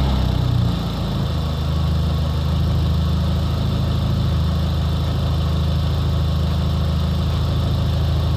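Turbocharged VW Golf GTI mk4 engine, fitted with a 2.5-inch exhaust and a sport intake filter, dropping back from a rev in the first second and then idling steadily.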